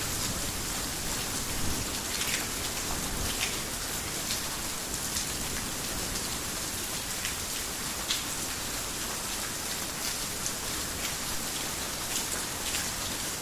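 Heavy rain falling steadily, with individual drops spattering now and then.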